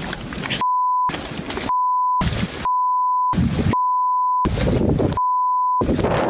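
Five censor bleeps, each a steady 1 kHz tone about half a second long, covering the original audio. Between them is loud rushing wind-like noise.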